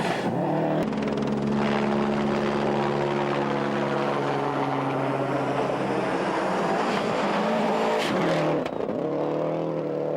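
Subaru Impreza 555 WRC rally car's turbocharged flat-four engine running at a steady, high engine speed for several seconds. Near the end the pitch drops briefly and then climbs again.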